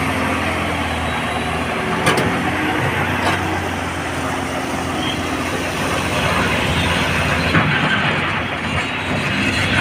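Heavy diesel machinery running steadily, with two sharp knocks about two and three seconds in.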